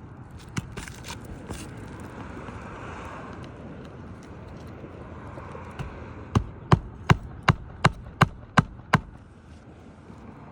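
Roofing nails being driven into asphalt shingles: eight sharp, evenly spaced strikes a little under three a second, starting about six seconds in, with a few lighter clicks before them.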